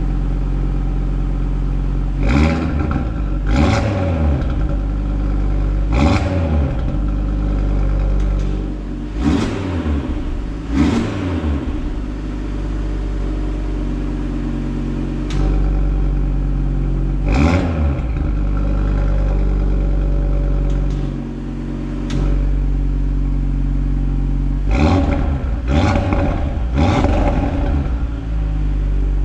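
Audi TT RS 2.5 TFSI five-cylinder turbo engine, exhaust without particulate filter, idling with about ten short throttle blips. Some come in quick pairs and three come close together near the end, each a quick rise and fall in revs over the steady idle.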